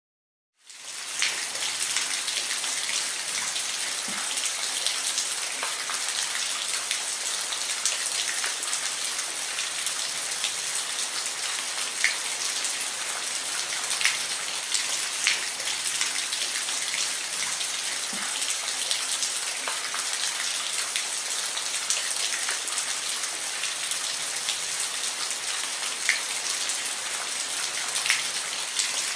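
Steady rain falling, a constant hiss with scattered sharper drop ticks here and there. It fades in within the first second.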